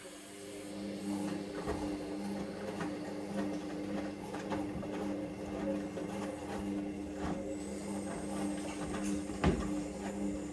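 Hoover Vision Dynamic washing machine's motor turning the drum in a wash tumble: a steady hum that starts right at the beginning, with light knocks of the laundry tumbling inside and one sharper thump near the end.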